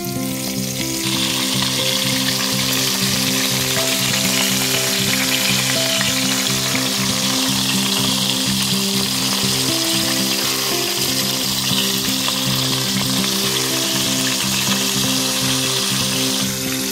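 Whole Pekin duck searing in its own fat in a cast-iron camp oven, sizzling steadily, growing fuller about a second in. Background music with held notes plays underneath.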